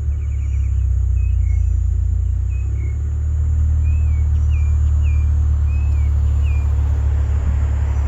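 Lexus IS350's 3.5-litre V6 idling through its exhaust: a steady low drone with no revving. Birds chirp faintly over it through the middle.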